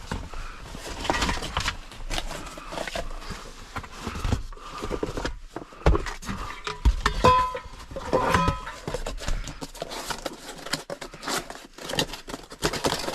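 Irregular metal clinks and knocks from hand tools and driveline parts being handled and fitted, a few of them ringing briefly.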